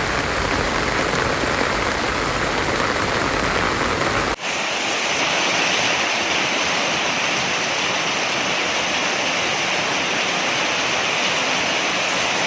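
Heavy rain pouring down, a dense steady hiss with a low rumble. About four seconds in it cuts abruptly to a brighter, steady rush of water.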